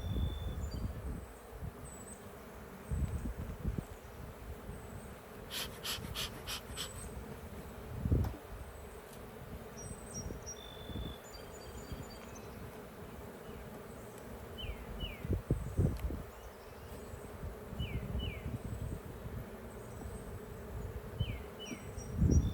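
Honeybees buzzing in a steady hum around an open hive, with occasional low thumps from the hive being handled. Short bird chirps come and go, and a quick run of four sharp clicks sounds about six seconds in.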